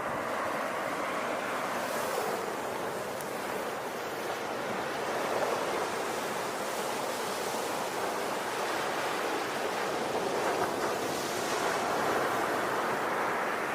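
Ocean waves breaking and washing on the shore, a continuous rushing surf that swells and eases.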